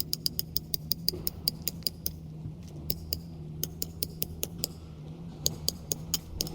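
Rapid, even light clicking, about six ticks a second, pausing briefly twice, over a steady low hum.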